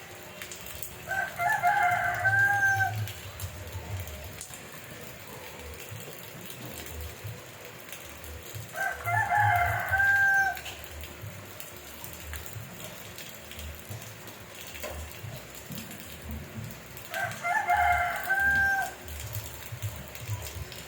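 A rooster crowing three times, about eight seconds apart, each crow ending in a held note, over the steady hiss of rain.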